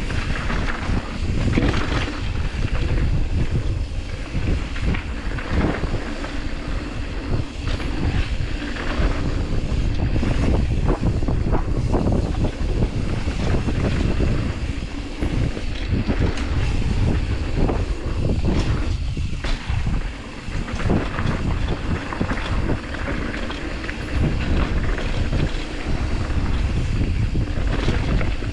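Mountain bike riding down a dirt trail: wind rushing over the camera microphone, with the tyres rolling and the bike rattling and knocking over bumps.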